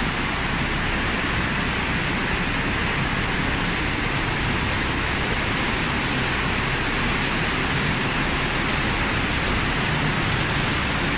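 Steady rushing of fast-flowing stream water through a concrete tunnel: an even, unbroken hiss of white water.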